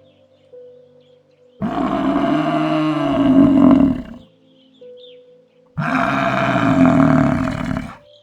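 A large animal giving two long, low calls, each about two and a half seconds, a second or so apart, over soft background music.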